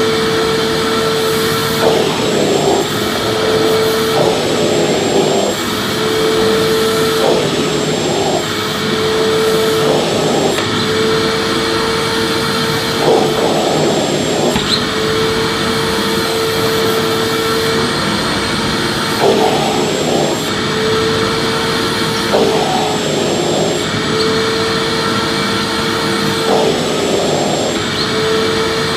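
Vacuum cleaner running continuously, a steady motor hum over a rushing of air. Every second or two its note breaks briefly with a short noisy surge.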